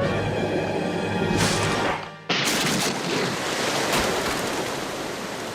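Cartoon music, then about two seconds in, after a brief drop-out, a sudden crash sound effect that turns into a steady rushing, surf-like noise.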